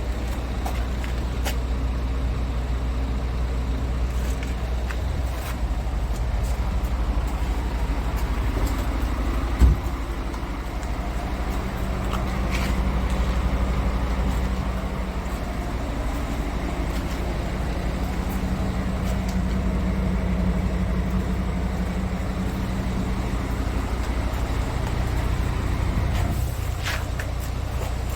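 Scania P230 truck's five-cylinder diesel engine running steadily, with one sharp knock about ten seconds in.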